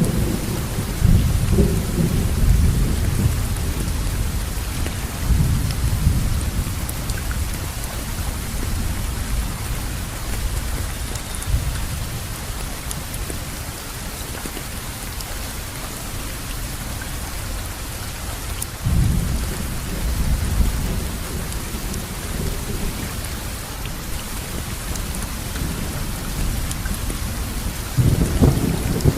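Steady rainfall hissing, with low rolling thunder rumbles that swell near the start, again about two-thirds of the way through, and once more at the very end.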